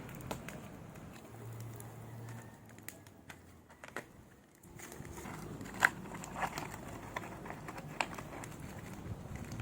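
Irregular crackling and sharp clicks from milkfish grilling over a fire, with one louder snap about six seconds in.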